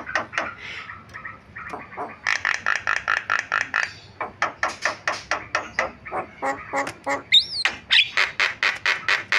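Javan myna calling: a fast run of harsh, chattering notes, several a second, with a brief whistled glide about seven seconds in.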